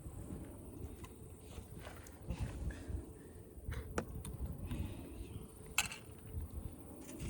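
Small wood fire crackling, with scattered sharp pops, the loudest a little under six seconds in, over a low rumble.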